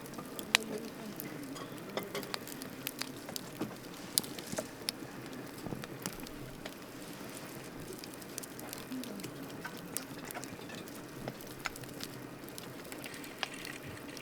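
Wood campfire burning with a steady hiss and frequent irregular crackles and pops, one sharp pop about half a second in.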